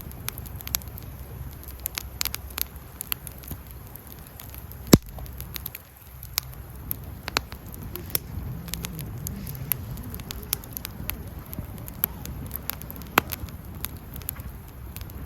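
Wood campfire crackling, with irregular sharp pops and one much louder pop about five seconds in, over a low steady rumble.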